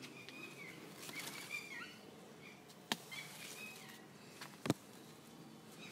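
Small birds chirping in short repeated calls, with two sharp clicks, one about three seconds in and a louder one near five seconds.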